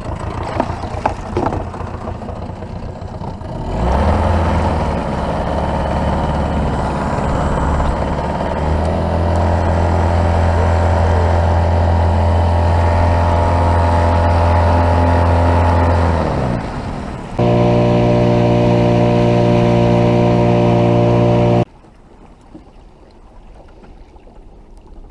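Boat motor running under way. It throttles up about four seconds in and runs steadily, eases off around sixteen seconds, then runs steadily again at a different pitch before cutting off abruptly.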